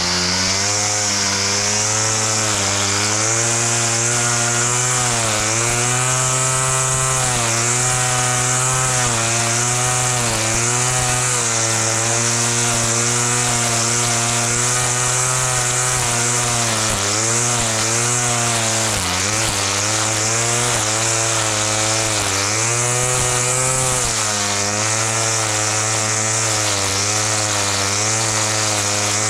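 Small petrol lawn mower engine running hard while cutting grass, its pitch dipping and recovering over and over as it takes the load, with a steady hiss from the blade.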